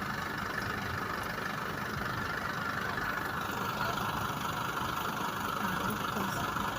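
A vehicle's engine running steadily, an even, unbroken drone.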